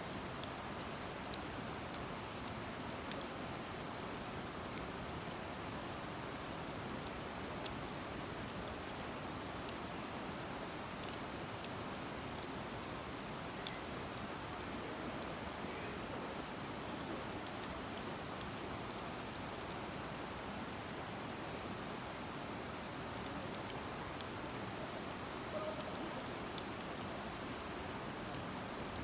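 Wood fire burning in a fire grill, crackling with scattered small pops and snaps over a steady rushing hiss.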